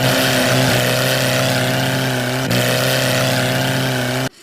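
Engine-like running sound, steady in pitch, with a brief dip and pickup about two and a half seconds in. It cuts off suddenly just before the end.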